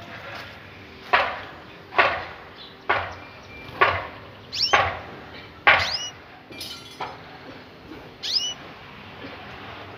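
Spanish Timbrado canaries calling: six loud, short falling calls about a second apart, then scattered higher chirps.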